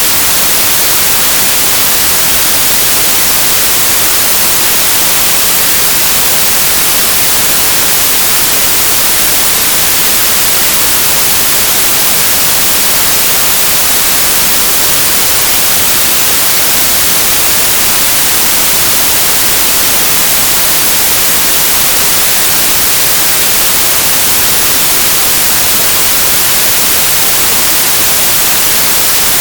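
Synthesized white noise: a steady, bright hiss with a flat spectrum that never changes.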